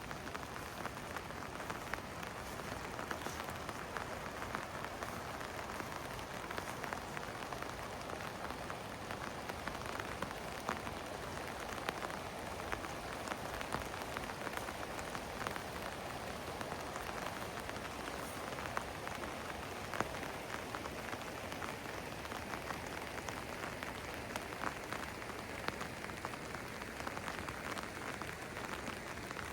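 Steady rain falling, with many separate drops hitting close by as irregular small clicks over an even hiss.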